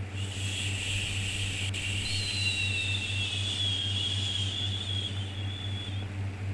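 A long, steady 'shhh' shushing sound for soothing a baby, with a faint whistle in it, over a constant low hum; the shush fades out near the end.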